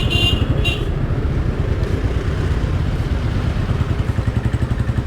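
Royal Enfield Thunderbird 350's single-cylinder engine running under way, a steady low pulsing rumble. A short high-pitched tone sounds twice within the first second.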